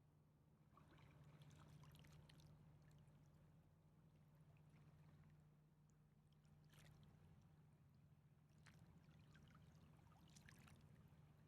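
Near silence: faint river water lapping and splashing in soft irregular bursts, over a low steady hum.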